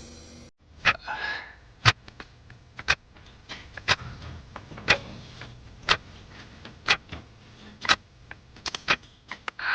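Sharp ticks at a steady pace of about one a second, with a quicker cluster of clicks near the end.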